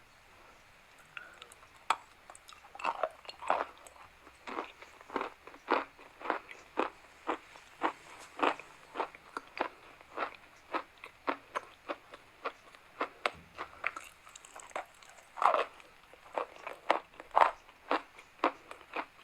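Chalk crunching: sharp, dry crunches about two a second, some louder than others.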